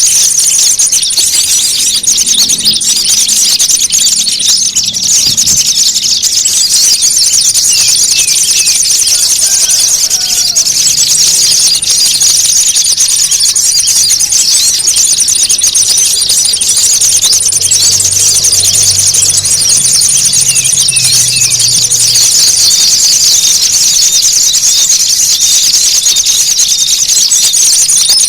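Small songbirds' loud, agitated chattering, dense and high-pitched, with a thin high trill that keeps breaking off and starting again. It is a noisy 'fight' lure call, meant to draw all kinds of small birds.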